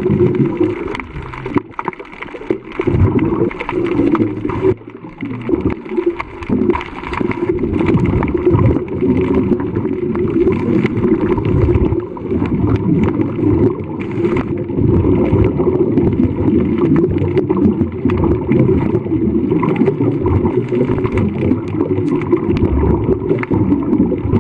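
Continuous low rushing and gurgling of water, with scattered short clicks.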